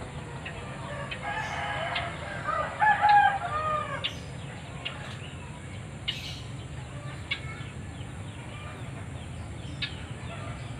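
A single fowl-like call lasting about two and a half seconds, loudest about three seconds in, followed by scattered short chirps and clicks.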